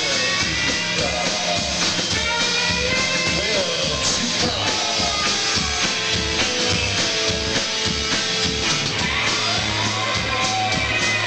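Live rock band playing an instrumental passage, with guitars, bass and drums keeping a steady beat.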